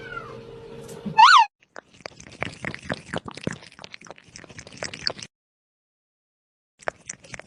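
A cat gives one short, sharp meow, followed by about three seconds of rapid, irregular clicking.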